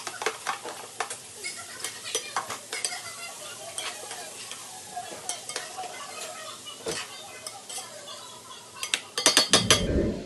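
A spoon scraping and clicking against a pot as ackee and saltfish are stirred into sizzling peppers and onions. Near the end comes a loud rumbling bump with a quick run of clinks.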